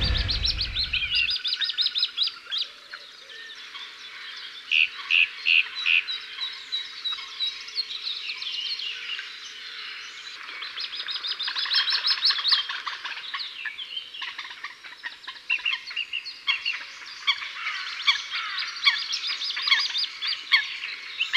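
Several small birds chirping and trilling together, a busy mix of quick repeated notes and short rapid runs that comes and goes in loudness.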